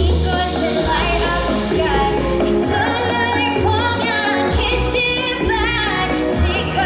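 K-pop girl-group song with female singing over a heavy, pulsing bass beat.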